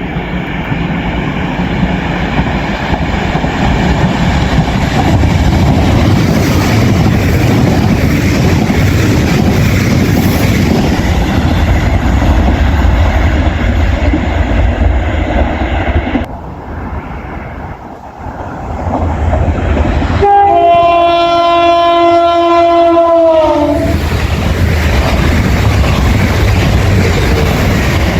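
NI Railways diesel multiple unit passing at speed, a loud rumble of wheels on rail that eases off about 16 seconds in. About 20 seconds in, a train horn sounds a multi-note chord for about three and a half seconds, dipping in pitch just before it stops. The loud passing-train rumble then returns.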